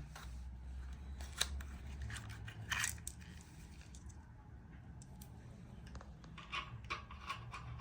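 Scattered sharp clicks and snips, then a quick run of lighter clicks near the end, over a low steady hum.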